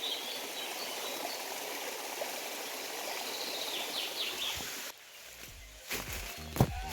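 Flowing water, a stream, rushing steadily with faint high chirps over it. About five seconds in it cuts off abruptly and music begins.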